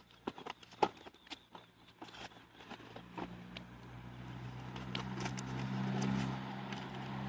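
Scattered light clicks and taps of a cardboard box and its contents being handled. Under them a steady low hum with a rushing noise grows gradually louder through the second half.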